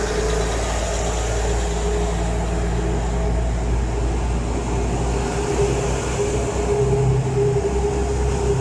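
Steady low rumble and hum of a train, with a constant droning tone and no sudden events.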